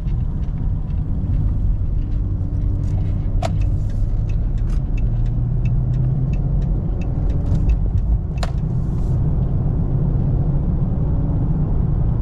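Car engine and road noise heard from inside the cabin while cruising at freeway speed: a steady low drone with a few faint clicks.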